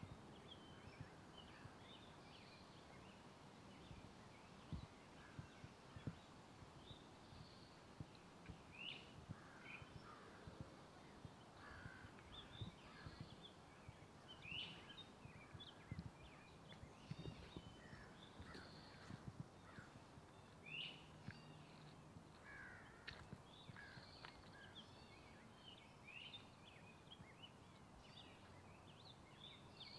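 Faint woodland birds chirping and calling, many short calls overlapping throughout, with soft irregular footsteps on a forest trail underneath.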